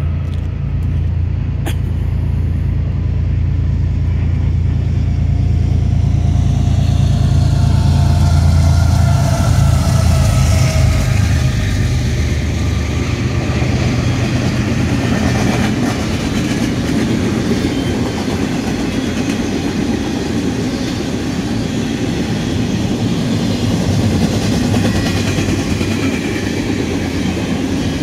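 Union Pacific freight train passing: a deep diesel-locomotive rumble with a whine falling in pitch for roughly the first ten seconds, then empty intermodal well cars rolling by with a steady noise of steel wheels on rail.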